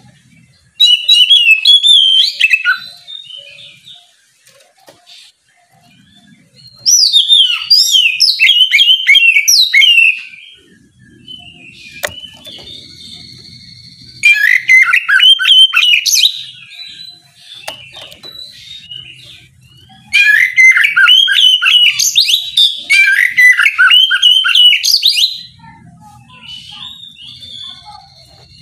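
Oriental magpie-robin (kacer) singing loud 'ngeplong' song in four bursts of rapid, varied whistled notes, each two to five seconds long, with short pauses between.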